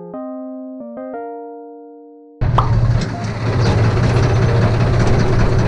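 Electric piano music ending on a held chord that fades, then an abrupt cut about two and a half seconds in to a tractor engine running with a steady low hum.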